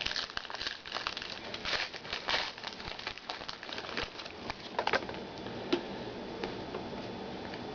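Trading cards and cardboard being handled: rustling, sliding and light clicks, busy through the first five seconds and sparser after.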